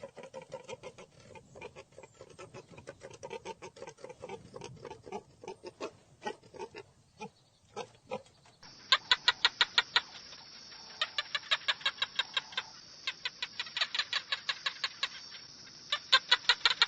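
Chickens clucking: soft, irregular low clucks, then, after a cut a little past halfway, runs of rapid, high, short calls at about five or six a second.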